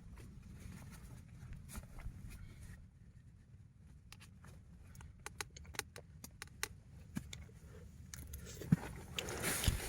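Low rumble of wind with a run of faint, sharp, irregular clicks and taps through the middle seconds.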